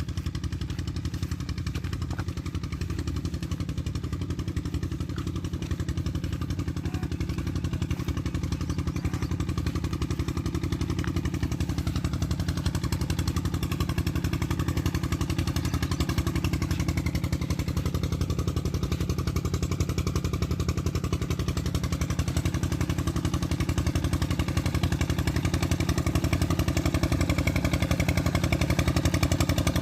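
Tubewell diesel engine running steadily with a rapid, even chugging beat, slowly getting louder.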